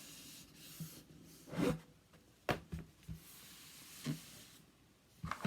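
Paper rustling and rubbing as a covering sheet is handled and smoothed onto a binder cover, with several short knocks.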